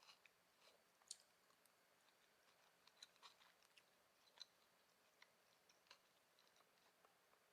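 Faint close-up chewing of a mouthful of bulgogi fries, with scattered small crunches and clicks.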